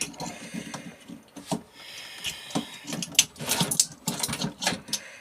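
Hand snips cutting through the wires of a microwave oven's transformer: a series of sharp clicks and snaps, several in quick succession near the middle, over low clattering of the parts being handled.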